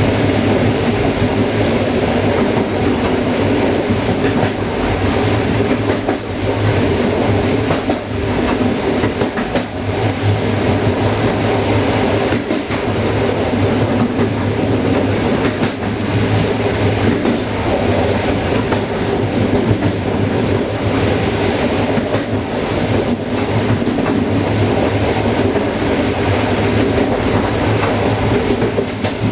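Diesel-hauled passenger train running steadily on jointed track, heard from the rear of the train: a steady rumble and hum with wheels clicking over the rail joints at irregular intervals.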